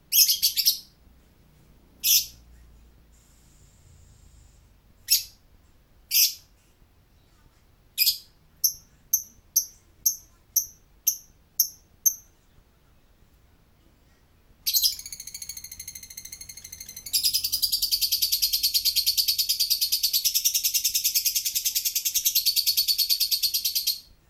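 Lovebird calling: a few sharp, high chirps, then a quick run of about eight short chirps. In the second half it breaks into a buzzy trill, then a long, loud, rapid chattering trill of about seven seconds, the 'ngekek' song, which stops abruptly.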